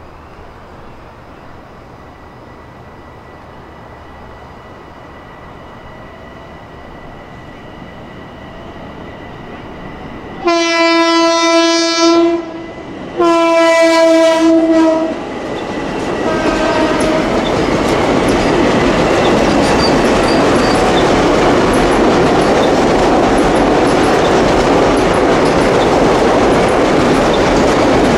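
A Long Island Rail Road commuter train sounds its horn in two long blasts with a short gap between them, under the faint steady ringing of the crossing bell. The train then passes close by with a loud, steady rolling rumble and wheel clatter.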